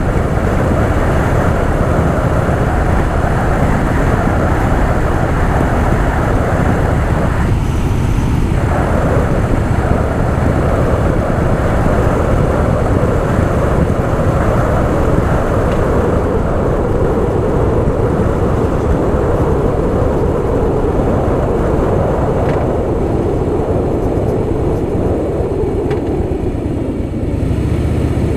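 Harley-Davidson Softail Fat Boy's V-twin engine running steadily while the bike is ridden, with road and wind noise. The sound eases slightly near the end.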